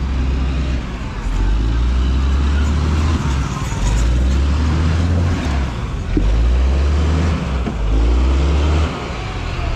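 Vehicle moving along a road, with a heavy low rumble that comes and goes every second or two.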